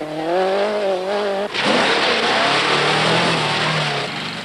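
Rally car engine held at high revs, then about a second and a half in a sudden loud rushing noise takes over, with a lower engine note beneath it.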